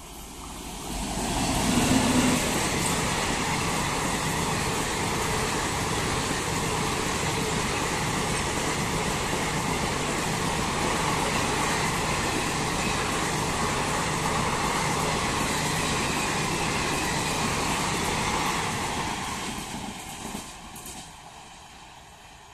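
Express train of ICF passenger coaches, hauled by an electric locomotive, passing close at speed: a steady loud rumble and clatter of wheels on the rails. It builds quickly as the locomotive arrives and fades away near the end as the last coaches recede.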